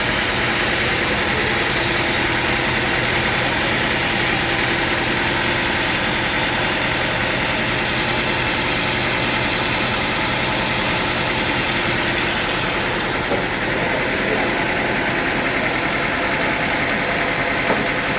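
Sawmill machinery running steadily: a constant motor drone with several held pitches.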